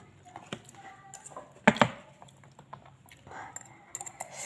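Scattered light clicks and taps from eating, with one loud double clack a little under two seconds in.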